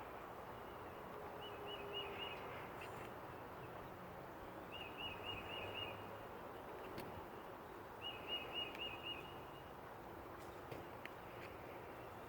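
A bird singing a short phrase of about five quick repeated notes three times, a few seconds apart, over faint steady outdoor background noise.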